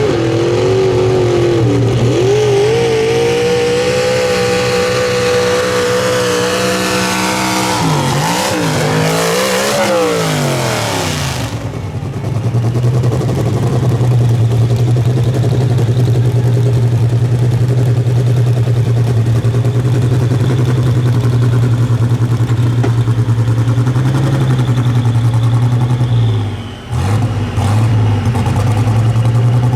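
Pro stock mini truck engine held at high revs under load, its pitch wavering and then falling away about eight to eleven seconds in as the run ends. After that an engine runs steadily at a low, even pitch, dipping briefly near the end.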